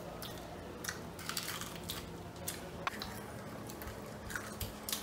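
Chewing and biting into fried samosas, with scattered small crackles and crunches of the pastry.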